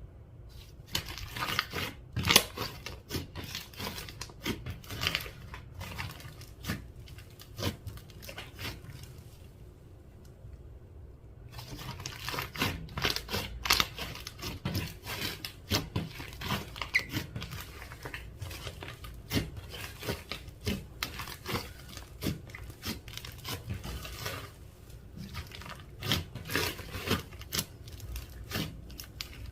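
Slime being worked by hand, stretched, pressed and folded, giving a dense run of sticky crackles and small pops. The sound breaks off for about two seconds a third of the way through.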